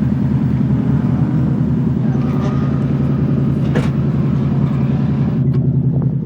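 Lexus IS300's swapped-in Toyota 1UZ 4.0-litre V8 idling steadily at a constant, lumpy pitch. A short sharp click comes a little after halfway.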